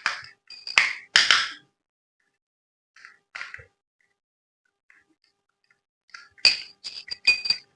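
Hard objects being handled: a series of sharp clicks and clinks with a short ring, loudest as a pair of clacks about a second in and a quick cluster near the end.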